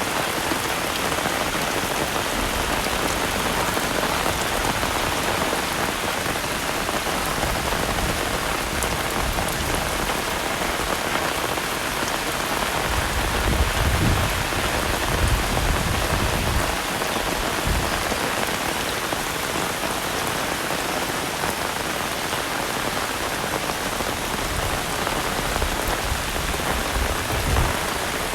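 Heavy rain pouring steadily in a dense hiss, with a low rumble for a few seconds about halfway through.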